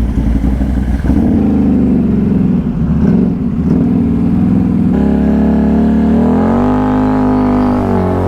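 ATV engine running and revving, rising in pitch a little past the middle and dropping near the end.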